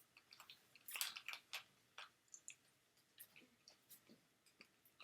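Faint, irregular wet clicks and smacks of a person chewing with a stuffed mouth, the loudest about a second in.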